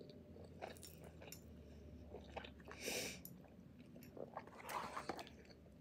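A person chewing a bite of cheese pupusa close to the microphone: soft, wet mouth sounds with small clicks and a brief breathy noise about three seconds in.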